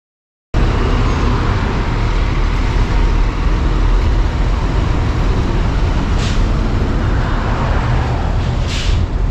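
Scania multi-axle coach on the move: steady engine and road rumble, with two short air hisses near the end.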